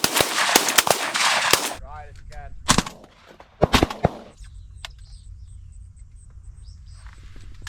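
Shotguns fired by several hunters at once at pigeons: a rapid, overlapping volley of blasts for about the first two seconds, then two more single shots around three and four seconds in.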